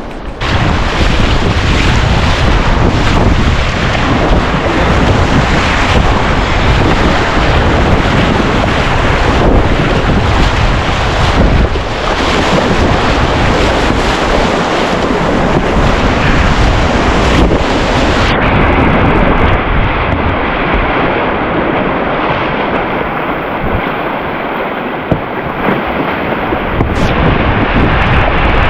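Big whitewater waves rushing loudly around a kayak, with wind buffeting the microphone. About 18 seconds in, the sound suddenly turns duller as the hiss drops away.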